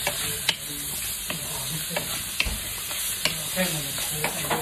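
Pork chunks and onion sizzling as they brown in a frying pan, with a wooden spatula stirring them and knocking and scraping against the pan in irregular clicks.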